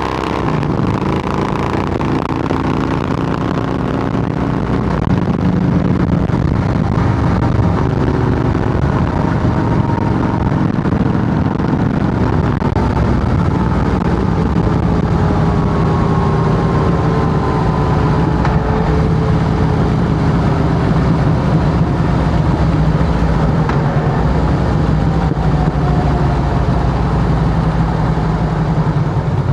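2008 Harley-Davidson Heritage Softail Classic's V-twin running steadily through Samson fishtail true dual exhaust pipes, a continuous low rumble that gets a little louder about five seconds in.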